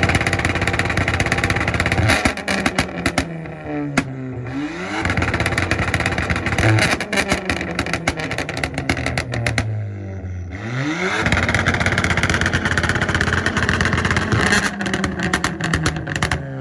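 Ford Fiesta's engine held on a two-step launch-control rev limiter, the exhaust popping and crackling rapidly. The revs drop and sweep back up twice, about four and ten seconds in.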